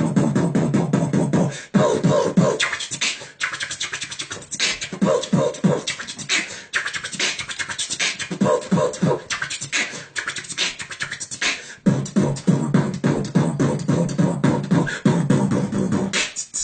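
Human beatboxing: a rapid stream of mouth-made kick, snare and click sounds, with a hummed bass line at the start and again for a few seconds near the end.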